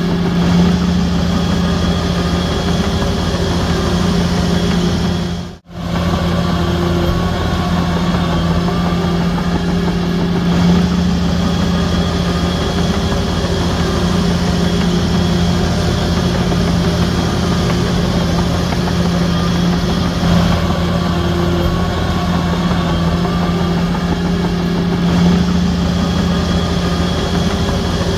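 Diesel engine of a Shantui bulldozer running steadily, a constant low drone with no change in pitch. The sound drops out sharply for a split second about five and a half seconds in, then resumes unchanged.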